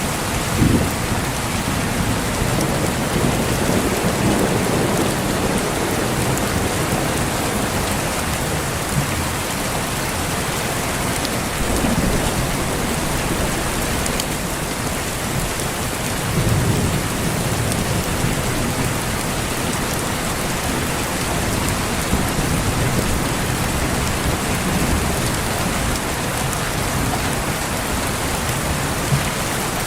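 Steady heavy rain falling, with rolls of thunder rumbling low at intervals: about a second in, around four seconds in, around twelve seconds in and around sixteen seconds in.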